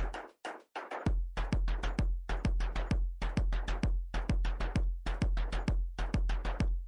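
Electronic background music with a steady drum-machine beat over deep bass. It cuts out briefly about half a second in.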